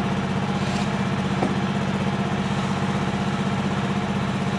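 Engine idling steadily with an even low pulse, heard from inside a car's cabin.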